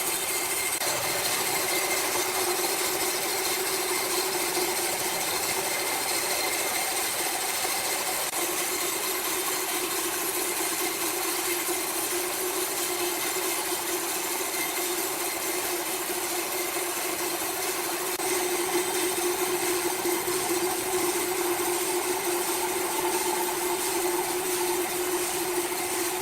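Sawmill machinery running steadily, a continuous hum with a hiss over it that shifts slightly in the second half.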